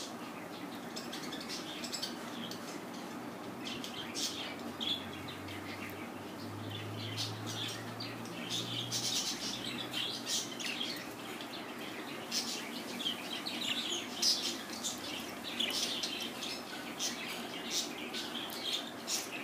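Pet budgerigars chirping and chattering: a steady scatter of short, high chirps and clicks.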